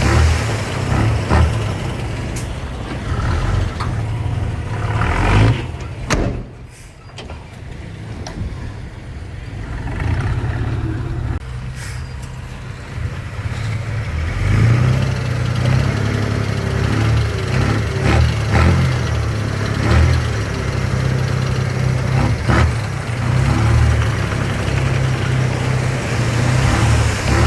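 Diesel engine of heavy earthmoving machinery running steadily, with occasional sharp clanks; the sound dips briefly about six seconds in before the engine picks up again.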